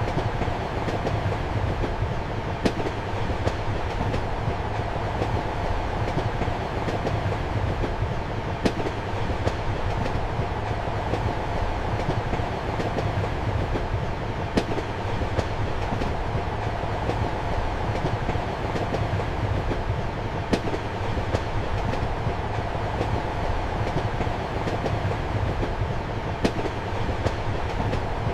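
Steady running noise of a passenger train heard from inside a compartment: a low rumble and hum under a constant rushing hiss. A sharp wheel click from the rails comes about every six seconds, with fainter ticks between.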